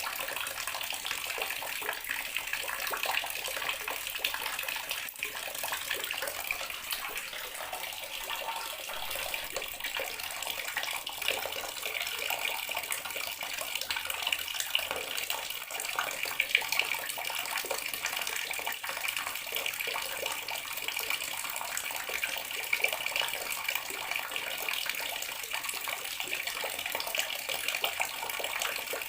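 Water tap running steadily in a bathroom, an even splashing stream of water.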